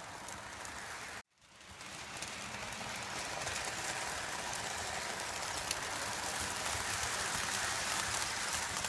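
Lionel toy train running on its track, a steady rattling clatter of wheels and motor that grows slowly louder. The sound cuts out briefly about a second in.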